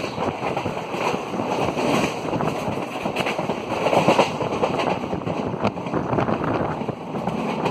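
An Indian Railways express coach running at speed, heard from its open doorway: a steady rush of wheels on rail and wind buffeting the microphone, with a few sharp clicks from the track.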